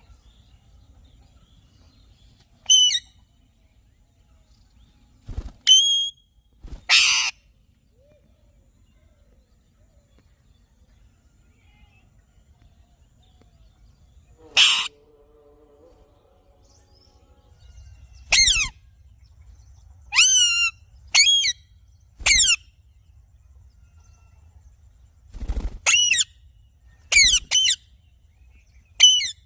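Alexandrine parrot giving short, loud calls one at a time, about a dozen in all, many dropping in pitch, with a gap of several seconds in the middle.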